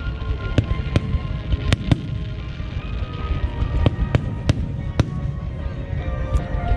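Starmine fireworks barrage: a continuous low rumble of launches and bursts, with several sharp bangs at irregular intervals.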